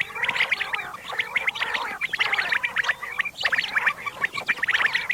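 Common quail calling: a dense chorus of quick, repeated high notes with no pauses.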